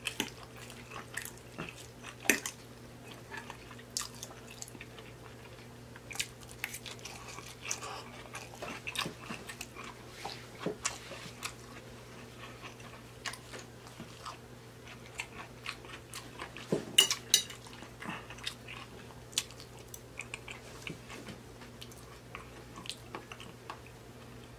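A man chewing a mouthful of food close to the microphone, with irregular wet smacks and clicks, over a faint steady low hum.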